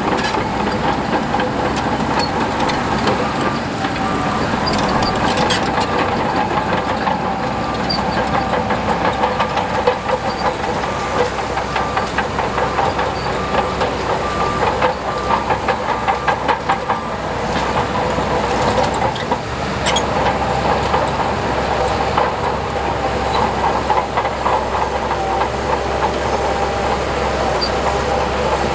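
Heavy diesel earthmoving machinery running steadily, with rapid metallic clanking and knocking from working steel parts. A faint beep repeats about twice a second for several seconds near the start.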